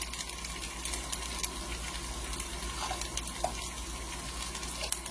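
Sliced potatoes frying in oil in a pan, a steady sizzle with scattered sharp crackles and pops.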